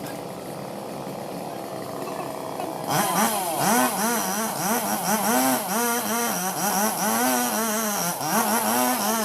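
Two-stroke Robin Plus chainsaw running steadily at low speed, then about three seconds in revving up sharply. Its pitch rises and dips over and over, about twice a second.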